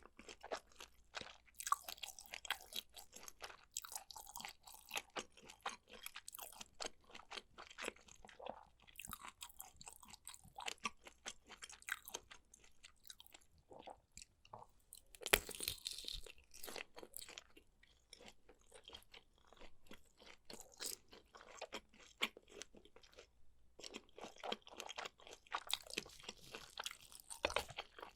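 A person chewing food close to the microphone: wet chewing with many crisp crunching clicks, and a sharper, louder bite about halfway through and another near the end.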